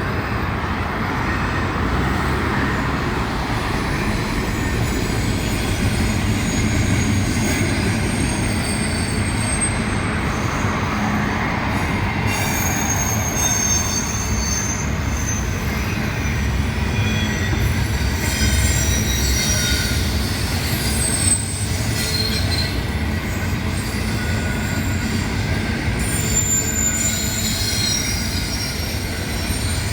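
CSX intermodal freight train rolling past, a steady rumble of steel wheels on the rails. From about halfway through, thin high squeals from the wheels come and go over the rumble.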